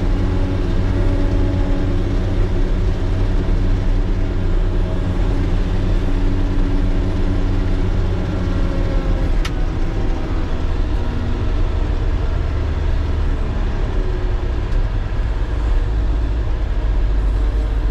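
Motor grader's diesel engine running steadily, its note shifting a little about halfway through.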